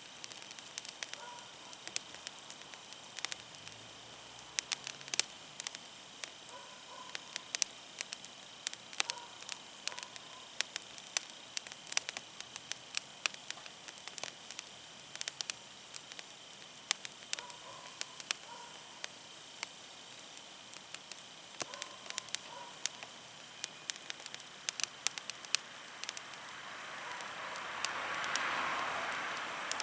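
Wood campfire burning with irregular sharp crackles and pops. Near the end a soft hiss swells up and dies away.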